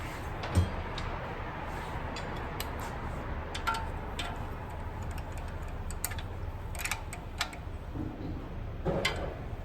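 Hand tools and metal parts clicking and tapping now and then during engine reassembly work, with a sharper knock about half a second in, over a steady low hum.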